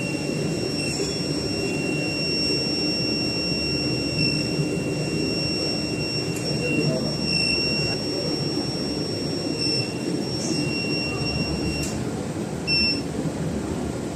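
SuperbMelt SPB-DH2 mini induction melting furnace running: a steady high-pitched whine over a steady rushing noise. The whine cuts out about two seconds before the end and comes back briefly.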